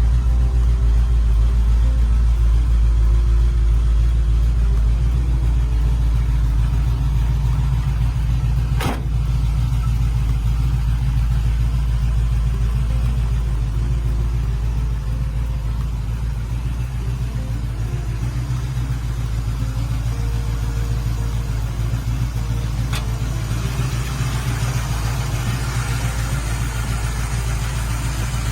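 Chevrolet 327 small-block V8 with headers, in a 1968 Camaro, running at a steady idle with a deep, even rumble. There is a sharp click about nine seconds in.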